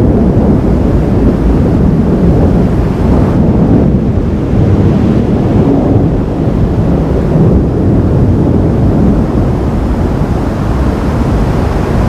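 Thunderstorm: a loud, continuous low rumble of rolling thunder, with wind buffeting the microphone.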